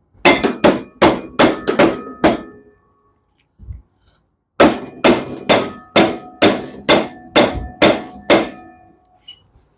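Hammer striking metal in two quick runs: about six blows, a pause of roughly two seconds, then about ten more, each with a short metallic ring.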